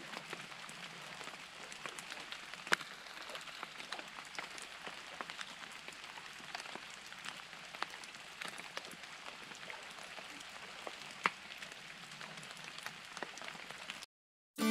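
Rain falling on a surface: a steady hiss of drops with scattered sharper ticks, cutting off suddenly near the end.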